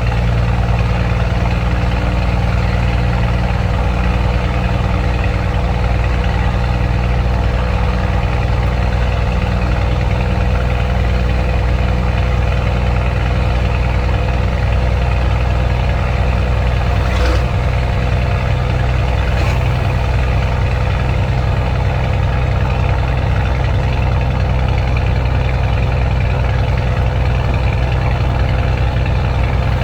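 Scania truck's diesel engine running steadily in direct-drive top gear at cruise, an even low drone with no change in pitch.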